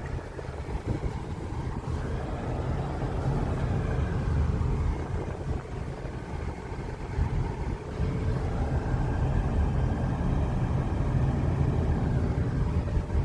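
A car driving along, with steady engine and road noise heard from inside the cabin; it grows a little louder about a third of the way in and again past the middle.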